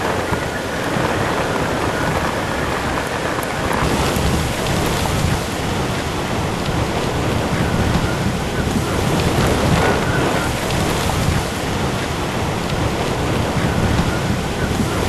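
Hurricane Isaac's heavy rain and wind: a loud, steady rushing noise with a deep rumble underneath.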